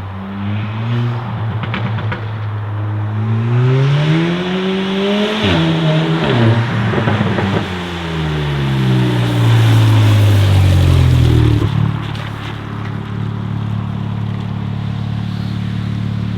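Modified sports car's engine accelerating hard, its pitch climbing with sharp breaks about five and a half and seven and a half seconds in, then falling steadily for a few seconds. From about twelve seconds a steady low engine idle.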